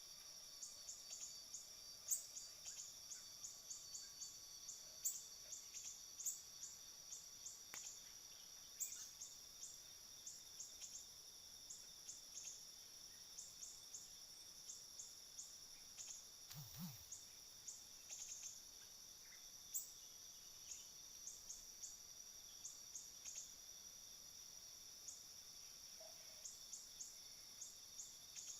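Faint insects drone in steady high-pitched tones, with many short, high chirps scattered throughout.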